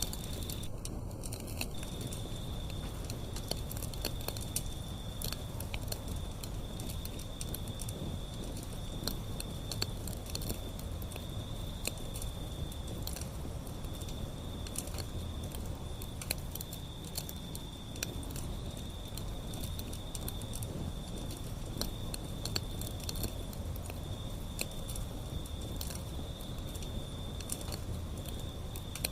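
Wood fire burning steadily, with irregular pops and crackles from the burning wood over a low rumble of flame.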